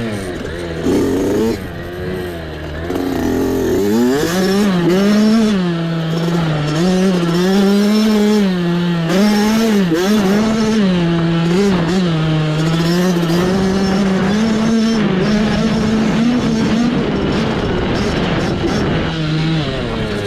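Mini bike engine running under the rider's throttle, its pitch rising and falling again and again as it accelerates and backs off. It runs lower and unevenly for the first few seconds before picking up.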